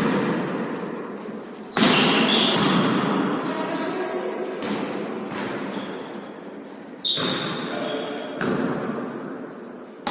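A ball being struck and bouncing on a hard floor in a large echoing hall during a volley tennis rally. Two sharp loud impacts come about 2 s and 7 s in, with lighter hits between, and each rings out with reverberation.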